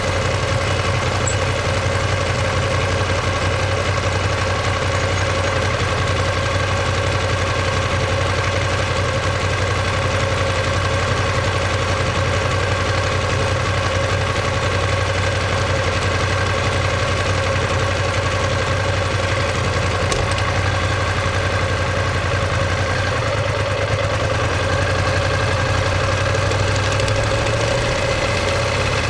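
Ducati Monster 1200S 1198 cc L-twin engine and exhaust running steadily at an even engine speed, with no revving.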